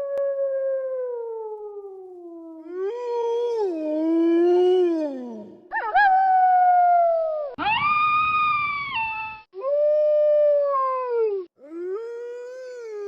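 Wolves howling: a string of long howls, each held and then sliding down in pitch, some of them cut off suddenly.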